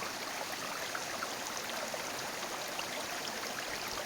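Steady rushing water noise, with scattered faint ticks on top.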